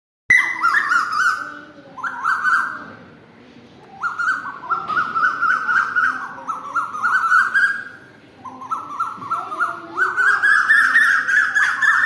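Birds calling in long runs of rapid, chattering notes, in bouts of one to four seconds with short dips between, loudest near the end.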